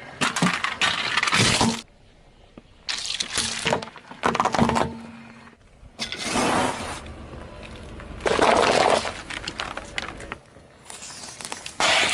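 Objects crunching, cracking and breaking as they are crushed under a car's tyres, in about six separate bursts with short pauses between.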